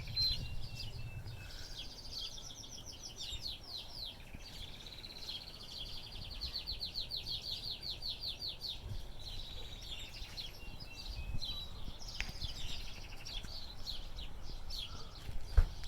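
Small wild birds singing, with long fast trills of high repeated notes and scattered chirps. A single sharp knock comes near the end.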